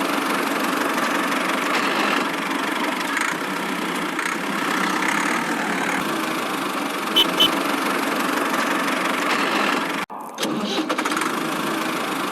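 Miniature tractor's motor running steadily, with two quick clicks about seven seconds in and a brief cut-out about ten seconds in.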